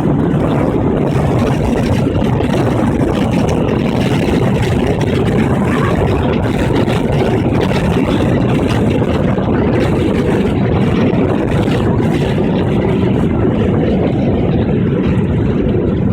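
Steady low rumble inside a jet airliner's cabin as the plane lands, the noise of engines, airflow and wheels running on without a break.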